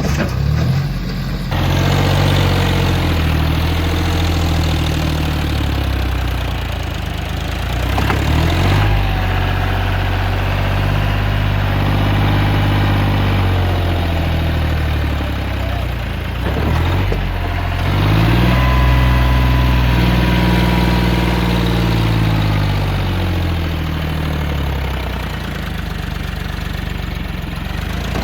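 Diesel tractor engine running and revving up and down again and again, its pitch rising and falling every few seconds as it works under load.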